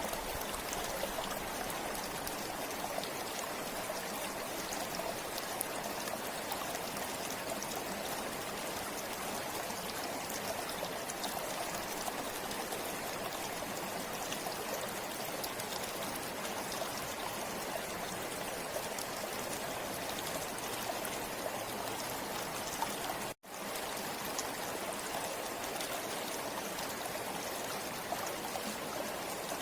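River water flowing steadily over rocks: an even rushing and trickling. It drops out for an instant about three-quarters of the way through, then carries on unchanged.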